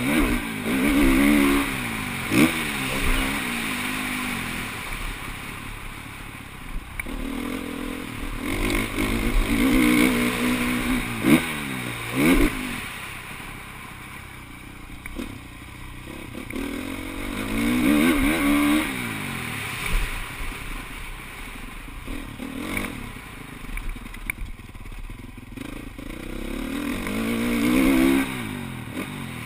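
Motocross dirt bikes riding the track, their engines revving up and down through the gears. The sound swells loud several times as bikes come past and fades in between.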